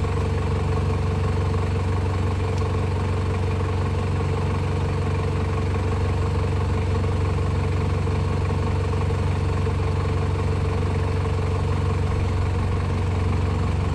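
Toyota Hilux Surf engine idling steadily while the vehicle stands still, an even low hum that does not change.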